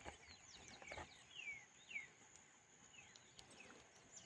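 Faint chirping of small birds, a run of short, quick falling notes, over a steady high insect trill.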